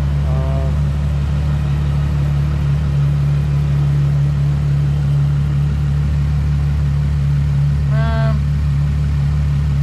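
Ferrari FF's 6.3-litre V12 idling steadily, kept at idle so the oil level can be checked on the dipstick.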